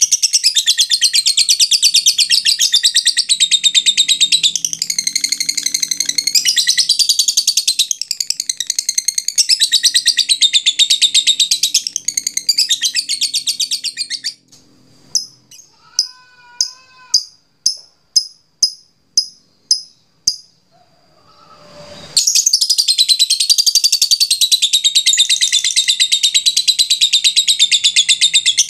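A lovebird's 'ngekek panjang', its long, rapid, high-pitched chattering trill. Roughly halfway through, the trill breaks off into about a dozen single sharp chirps, and after a short gap it resumes suddenly at full strength.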